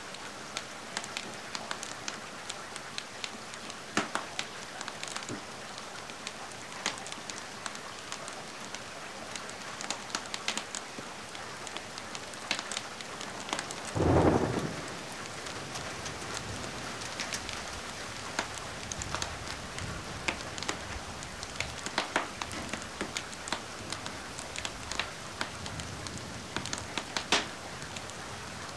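Steady rain with a wood fire crackling, sharp pops scattered throughout. About halfway through comes a louder low boom, followed by a low rumble that lasts several seconds.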